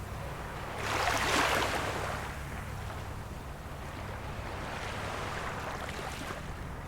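Small waves of a calm sea washing onto the shore, one louder wash about a second in and a softer one near the end, over a steady low rumble.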